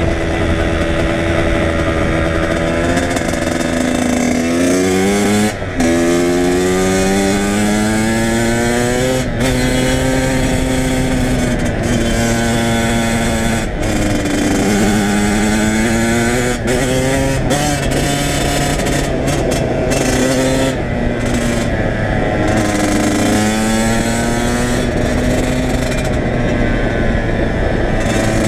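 Kawasaki KX100 single-cylinder two-stroke engine under way, revving up through the gears. Its pitch climbs and falls back at each shift, several times over.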